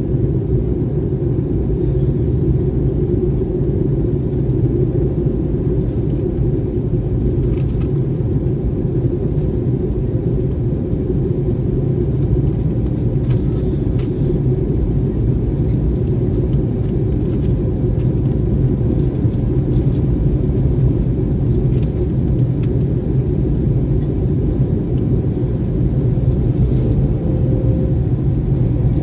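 Steady cabin noise inside an Airbus A321neo airliner: a loud, even low rumble of engines and airflow, with a few faint ticks.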